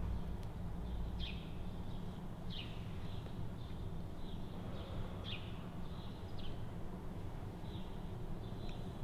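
Short, high bird chirps repeating every second or so over a steady low hum.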